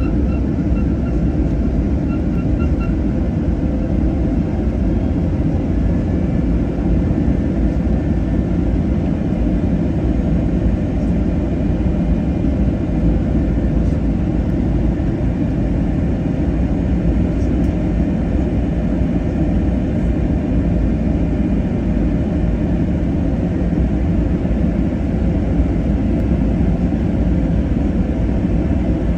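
Steady, loud rumbling cabin noise of an Airbus A321neo airliner, with engine and airflow noise. A few faint short beeps sound near the start.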